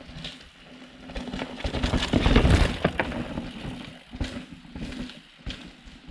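Mountain bike setting off down a dirt forest trail: tyre rumble and rattle build up as it picks up speed, peak about two and a half seconds in, then ease, with a few sharp knocks from bumps.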